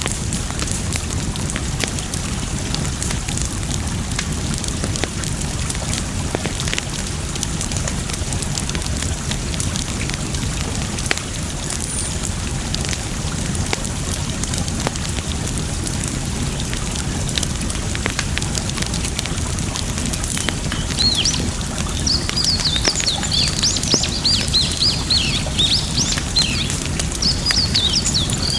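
Campfire crackling with scattered sharp pops over the steady rush of flowing water. For the last several seconds a bird chirps in a quick run of high notes.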